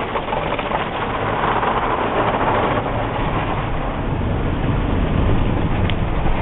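Automatic car wash brushes rubbing over the roof of a van, a loud steady scrubbing noise heard from inside the cabin, with the low rumble growing stronger about halfway through.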